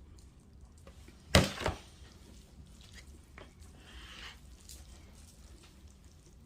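A utensil knocks sharply against a casserole dish once about a second in, with a lighter knock just after, then faint scraping and shuffling as spaghetti is spread across the dish.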